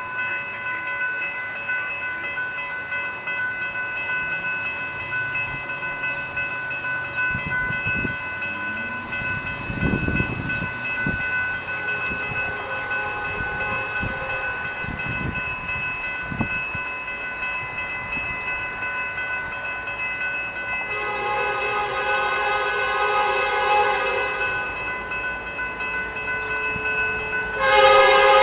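Grade-crossing bell ringing steadily as a Canadian Pacific freight approaches. The lead locomotive's air horn sounds a chord for about three seconds two-thirds of the way through, then a louder blast begins near the end.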